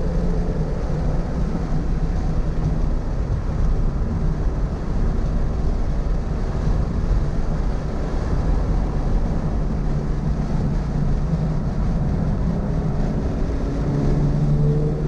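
Toyota GR86's 2.4-litre flat-four engine heard onboard at speed on track, with heavy road and wind noise. The engine note is subdued through most of the stretch and comes back up strongly near the end.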